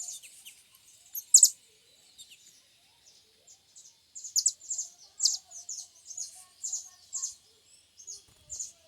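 Small songbird chirping in a quick run of short, high notes, with one loud chirp about a second and a half in and a busier stretch of calls from about halfway.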